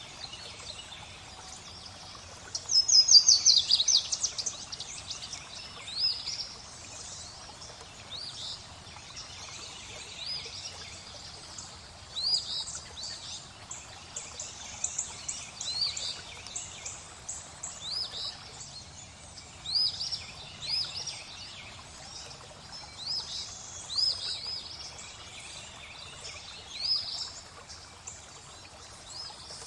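Songbirds singing over steadily flowing water: short high chirps every second or so, with a louder rapid trill about three seconds in.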